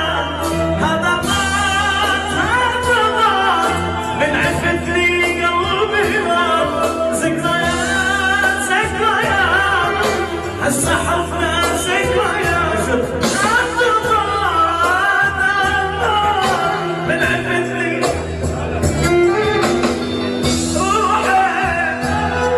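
Music: a singer's ornamented, wavering melody over sustained low accompaniment.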